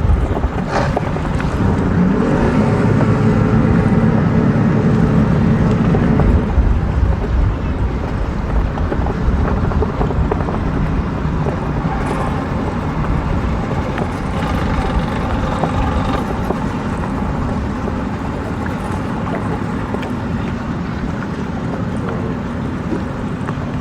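Boat engines running at low speed, louder for the first several seconds and then a steadier, quieter hum.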